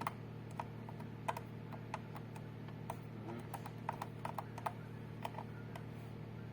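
Keys being pressed: irregular, light clicks, about twenty in a few seconds, over a steady low hum.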